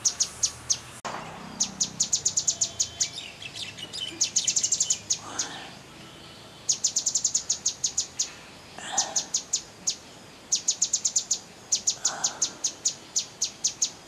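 Grey-headed canary-flycatcher calling: runs of short, sharp, high chip notes, about eight to ten a second. Each run lasts a second or two and repeats after short gaps.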